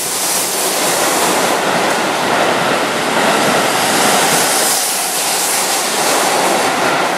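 Keihan 8000-series limited express train running past the platform at speed: a steady, loud rush of wheels on rail and air.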